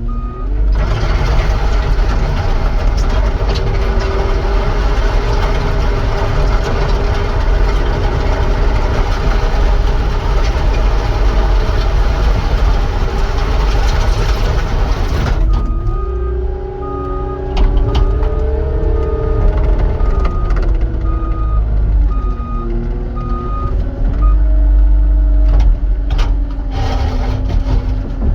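Caterpillar 259 skid steer's diesel engine running while working, its pitch rising and falling with the throttle and load. About halfway through, the machine's backup alarm starts beeping in an even rhythm for several seconds.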